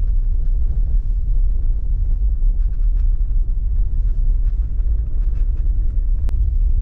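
Steady low rumble of a car driving on snowy roads, heard from inside the cabin, with a single sharp click about six seconds in.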